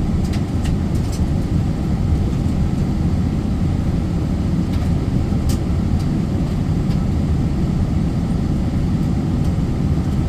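Steady low rumble of airliner cabin noise, engines and airflow heard from inside the cabin during the descent for landing, with a few faint clicks.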